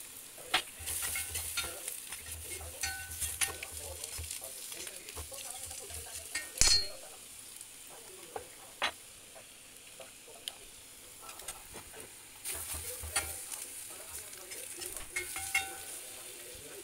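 Boiled eggs and onion masala sizzling in oil in a kadai while a spatula stirs and scrapes against the pan, with scattered clicks and one louder knock about seven seconds in.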